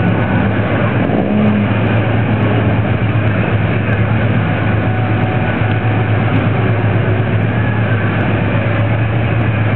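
Drag-race cars idling with a steady low rumble, among them a 1969 Camaro's 454 big-block V8 running through open exhaust cut-outs.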